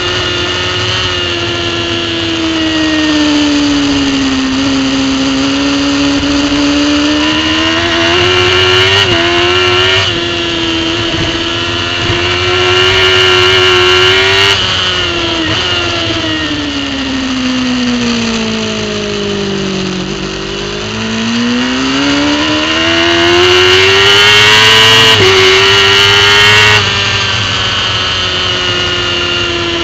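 Racing superbike engine heard from on board at speed, its pitch rising as the throttle is held open and falling as the bike slows, with sudden steps in pitch at gear changes. About two-thirds of the way through the revs sink into a long deep dip and then climb steadily again.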